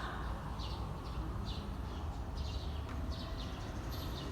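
Small birds chirping over and over, short high chirps about once or twice a second, over a steady low outdoor rumble.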